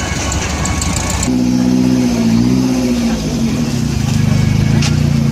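Car engine with a sport exhaust running: a rough rumble, then from about a second in a deep, steady exhaust drone whose pitch sags and rises slightly with the throttle.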